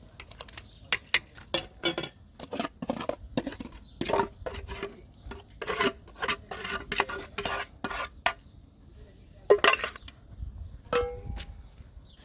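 Dishes, pots and utensils clattering and clinking: a quick string of sharp knocks and ringing clinks, the loudest about nine and a half seconds in.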